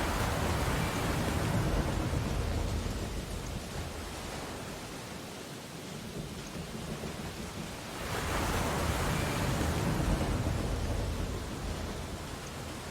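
Ocean waves breaking on a beach: one wave surges in at the start and fades away, and a second breaks about eight seconds in and washes out.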